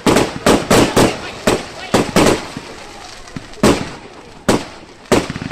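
Fireworks going off: about a dozen sharp bangs in quick, irregular succession, thinning out after about two and a half seconds with two more near the end.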